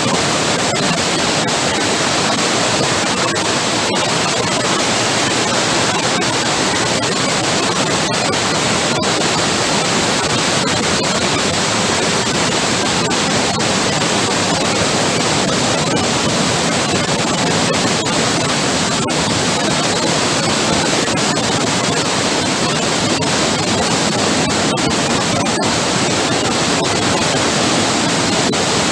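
Waterfall rushing, a loud steady noise that holds even throughout.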